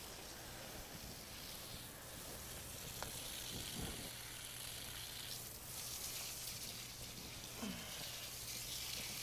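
A gasoline-fuelled fire on a beehive, giving a steady hiss with a few faint ticks.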